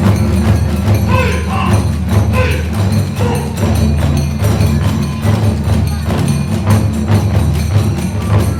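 Kagura hayashi accompaniment: taiko drums beating fast and continuously with clashing tebyōshi hand cymbals, and short high phrases from a bamboo flute (fue) over the top.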